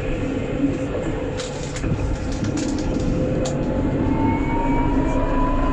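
Alstom Citadis 402 tram running on its rails, heard from the driver's cab: steady rolling noise under a held tone, with a few light clicks. About four seconds in, an electric whine begins and slowly rises in pitch.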